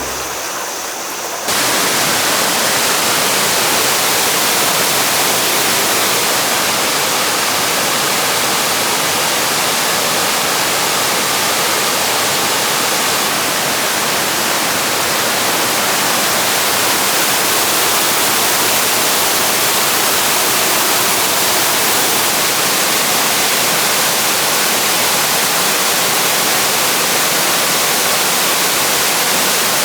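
Steady, loud rush of the Yudaki waterfall, water pouring down a rock face. The roar cuts in abruptly about a second and a half in, after a quieter water sound.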